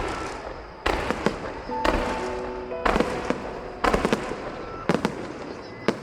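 Aerial fireworks shells bursting in steady succession, a sharp bang about once a second, each trailing off in crackle.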